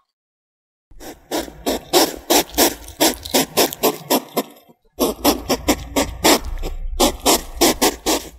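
African pygmy hedgehog huffing in quick short puffs, about four or five a second, starting about a second in, in two runs with a brief pause about five seconds in.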